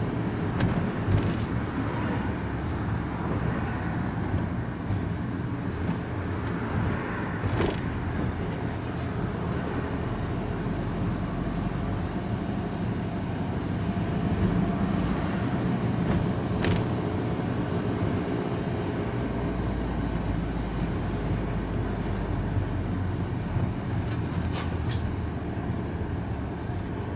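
Vehicle engine and road noise heard from inside the cab, pulling away and driving on after a green light, with a few faint clicks.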